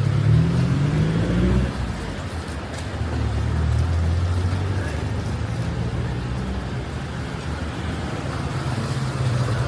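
City street traffic: a vehicle engine rises in pitch as it pulls away over the first second or two, then settles into a steady low running hum.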